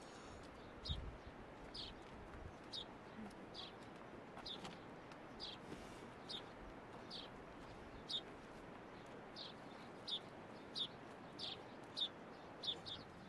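A bird repeating a short, high, slightly falling call note about every two-thirds of a second, over a faint steady hiss.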